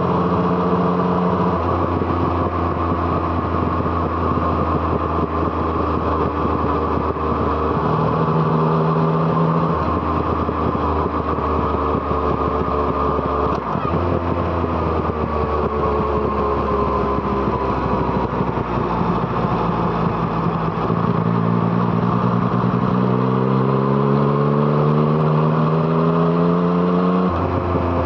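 Yamaha MT-09's inline three-cylinder engine through an Arrow Thunder exhaust, ridden on the road: running at fairly steady revs with a few changes of throttle, then climbing in pitch for several seconds about two-thirds through and dropping abruptly near the end.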